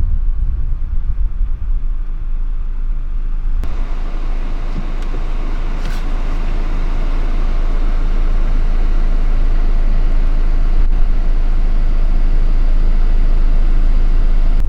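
Steady rush of road and wind noise from a vehicle driving, with a heavy low rumble; about four seconds in the sound turns suddenly fuller and hissier.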